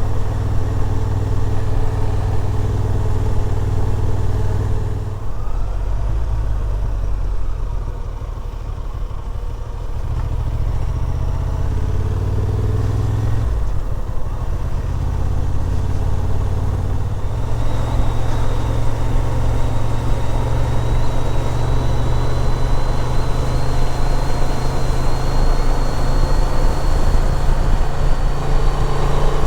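Motorcycle engine and exhaust running under way with wind and road noise. The engine note drops and picks up again a few times, and a faint rising whine comes in during the second half.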